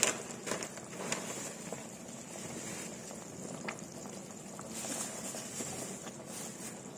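Pot of coconut milk with taro leaves simmering: soft, steady bubbling with scattered small pops and clicks.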